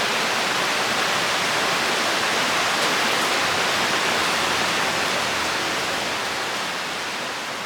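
Steady hiss of rain, slowly fading out from about five seconds in.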